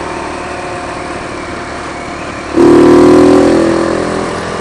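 Motorcycle engine and exhaust running on the road with wind noise. About two and a half seconds in, the exhaust suddenly gets much louder into a deep drone, then slowly falls in pitch and fades.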